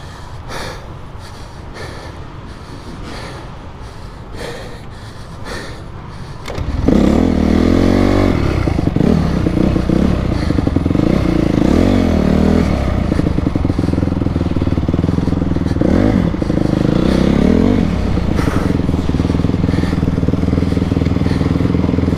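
2008 Honda CRF250R's single-cylinder four-stroke engine catching about seven seconds in during a pop start rolling down a hill, after a stretch of rolling and clicking. It is then revved up and down several times and settles into a steady run.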